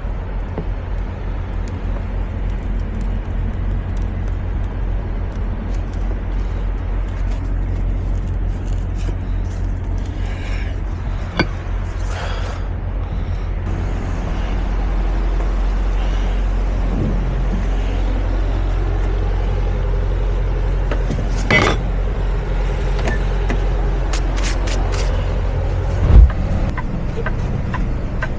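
Semi truck running with a steady low drone of engine and road noise, heard from inside the cab. A few sharp clicks or knocks break in, and the loudest is a single thump about 26 seconds in.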